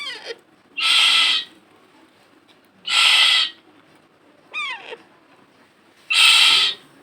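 Pet parrot giving three loud, harsh squawks a couple of seconds apart, with shorter falling whistled calls at the start and between the second and third squawk.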